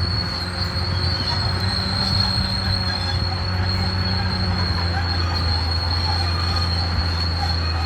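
Caterpillar D6R XL crawler bulldozer working, its diesel engine a steady low drone under a continuous high-pitched metallic squeal, typical of steel crawler tracks.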